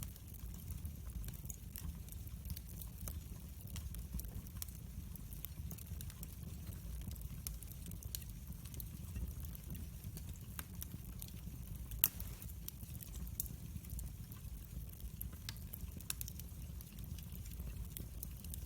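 Wood fire burning in a fireplace: a steady low rumble of flames with scattered crackles and snaps, and one louder pop about twelve seconds in.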